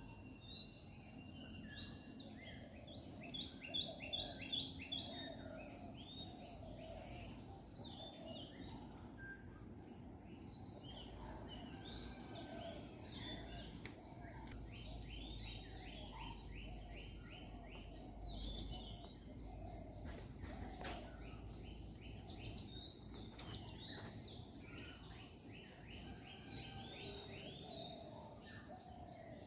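Several wild birds chirping and calling in overlapping short notes and quick repeated phrases, with a louder run of rapid notes a few seconds in. A steady high-pitched whine runs beneath.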